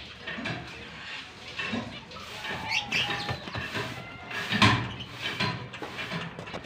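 Lovebirds chattering, with many short, irregular squeaky chirps. A single sharp knock sounds about two thirds of the way through.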